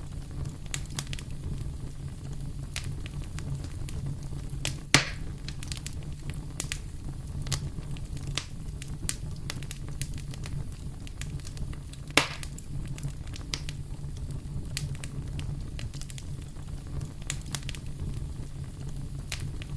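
Wood fire burning in a fireplace: a steady low rumble of flames with scattered crackles and two louder pops, about five seconds in and about twelve seconds in.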